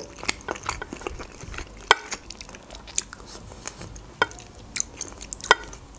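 Close-miked chewing of food, with wet mouth clicks and a few sharper clicks now and then.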